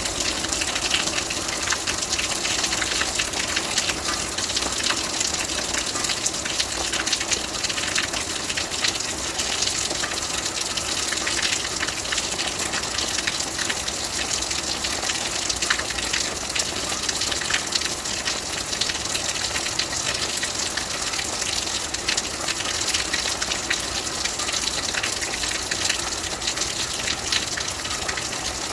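Rain falling steadily: a dense, even hiss with many fine ticks of drops.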